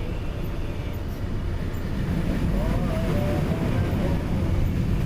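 Steady low rumble of a train in motion, running on without a break.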